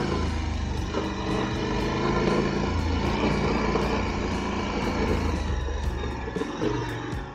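KTM 1290 Super Adventure S's V-twin engine running as the bike is ridden, its note shifting with the throttle over steady wind and road noise.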